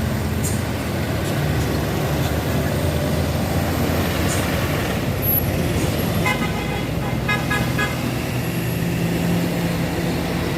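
Heavy truck engine running steadily on the climb, with a vehicle horn sounding two short toots about six and seven seconds in.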